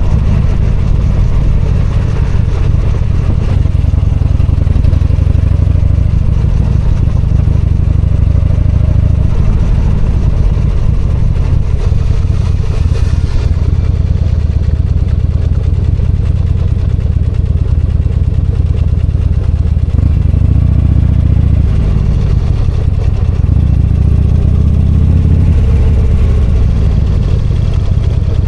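V-twin motorcycle engine running steadily under way, its pitch rising a few times as the bike accelerates.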